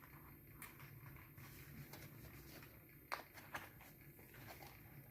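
Near silence with a few faint clicks and scuffs of a cardboard box being handled and folded shut, the sharpest clicks a little after three seconds in.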